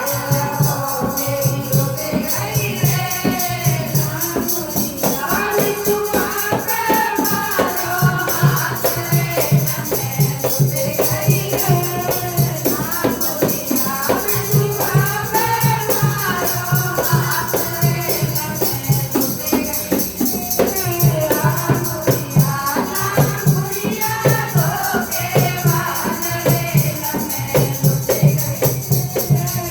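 Music: a Languriya folk song, sung over percussion that keeps a steady, quick beat.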